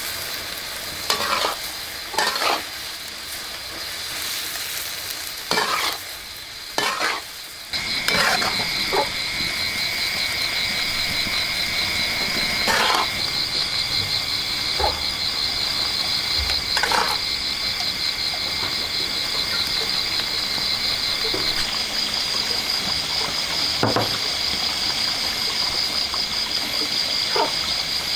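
Food frying in a hot pan, sizzling steadily while a spatula stirs and scrapes it in short strokes. About eight seconds in the sizzle grows louder, and a steady high pulsing whine comes in with it.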